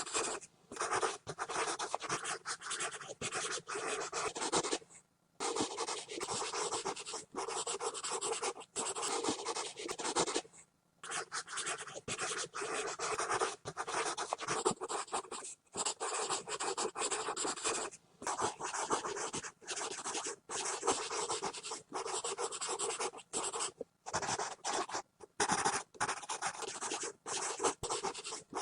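Pencil scribbling hard and fast on paper, a continuous scratching in runs of a second or two with brief lifts of the pencil between them, the longest pauses about five seconds in and about ten and a half seconds in.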